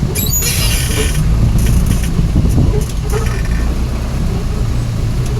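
Truck engine and road rumble, a loud steady low drone, with a brief high-pitched wavering sound in the first second.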